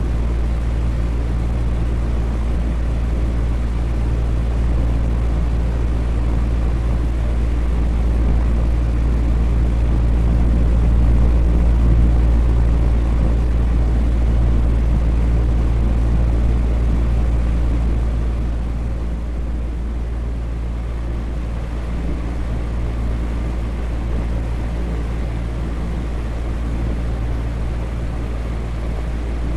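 Electric fan running steadily: a continuous whooshing hum heavy in the low end, easing slightly in level about two-thirds of the way through.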